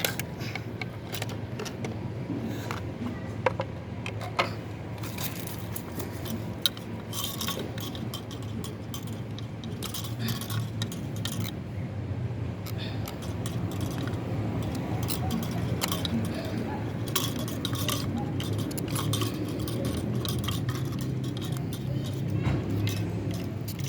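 Metal tools and parts clinking and clattering, many separate clicks, over a steady low hum.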